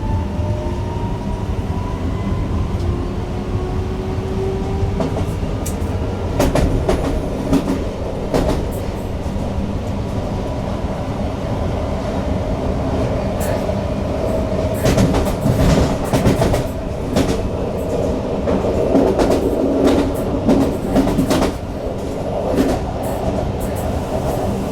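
Newag Impuls EN63 electric multiple unit running, heard from the driver's cab: a steady rumble of wheels on rail with irregular sharp clicks over rail joints. A faint electric drive whine rises in pitch over the first few seconds.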